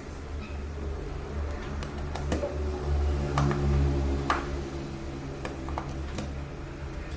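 Scattered light clicks and taps from handling small phone parts and tools, over a steady low electrical hum that swells for a couple of seconds in the middle.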